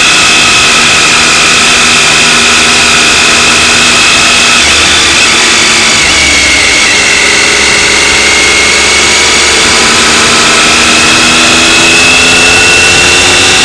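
Motorcycle engine running under way. Its pitch sinks a little around the middle and rises again near the end, over a steady rush of wind noise.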